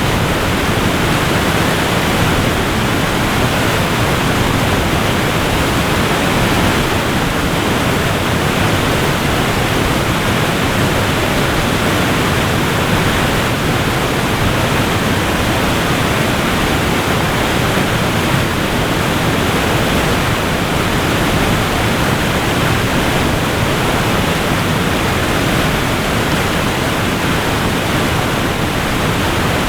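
Waterfall rushing: a steady, loud wash of falling water with no breaks or changes.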